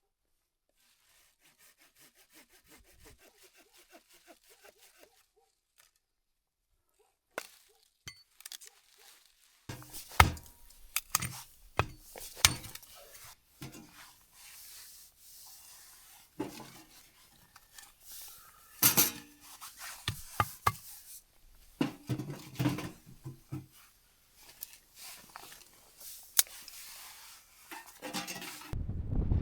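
Objects being handled by hand: a run of faint rapid ticks, then after a pause an irregular series of knocks, clinks and rubbing sounds, some sharp and loud.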